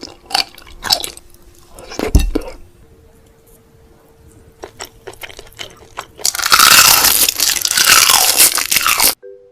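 Close-miked eating sounds: a few crisp crunching bites in the first couple of seconds, a quieter stretch, then about three seconds of loud, dense crunching and crackling that cuts off abruptly.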